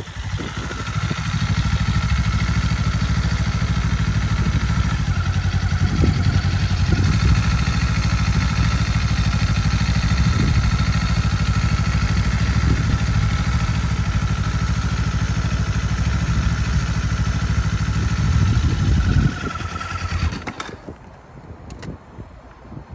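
2025 Kawasaki Eliminator's parallel-twin engine running steadily, with a thin steady whine over it and a few brief revs. It cuts off about nineteen seconds in.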